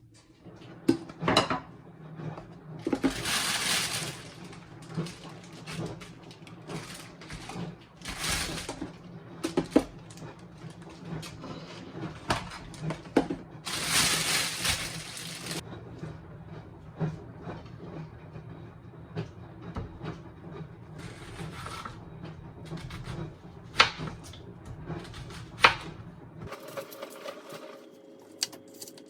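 Kitchen handling sounds: scattered clicks and knocks of utensils and dishes, with several short bursts of hissing noise, over a low steady hum that cuts off near the end.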